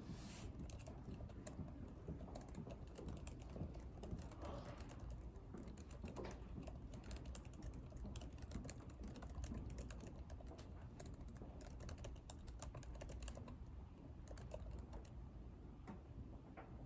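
Computer keyboard typing, keystrokes coming in quick irregular runs, over a steady low hum of room noise.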